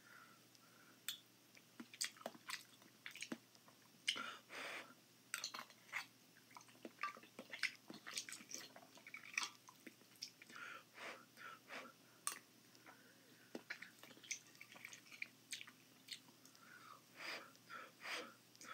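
A man chewing mouthfuls of eggs with Alfredo sauce and ramen noodles, in short irregular bursts of mouth sounds. There are occasional sharp clicks of a fork in a glass baking dish.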